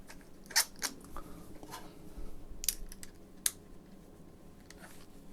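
A few short, sharp clicks and taps, four or five in all, with the clearest about half a second, near three seconds and about three and a half seconds in, over a faint steady background.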